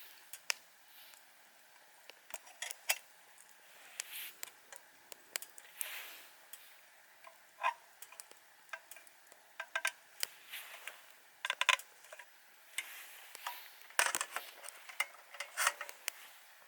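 Irregular light clinks and clicks of metal camp cookware and utensils being handled, with a few louder taps.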